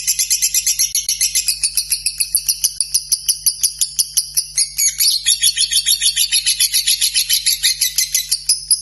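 Lovebird singing its long 'ngekek' chatter: a rapid, even string of high, sharp chirps at about eight a second, running on without a break.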